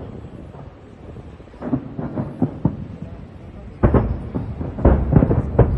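Fireworks bursting overhead: a quick run of smaller bangs in the middle, then several loud booms close together near the end.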